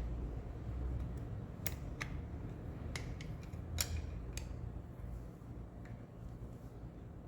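Scattered light metallic clicks and taps as engine parts are handled during piston fitting, about half a dozen irregularly spaced, the sharpest about four seconds in, over a steady low hum.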